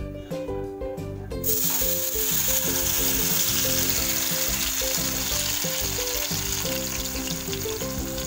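Grated red carrot sizzling in hot ghee in a kadai; the sizzle starts suddenly about a second and a half in, as the carrot hits the fat, and carries on steadily. Background music plays underneath.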